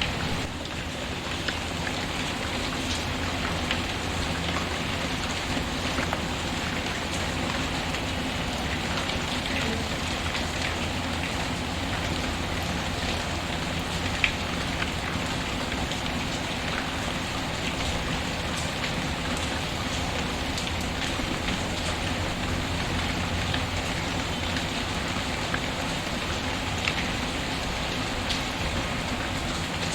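Steady rain falling, mixed with a crackling wood fire that gives occasional sharp pops, the loudest about halfway through and again near the end.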